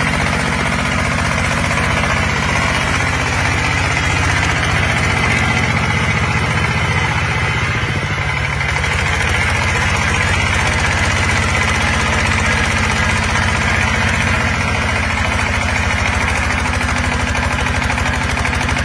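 Tractor engine running steadily, with a slight dip in level about eight seconds in.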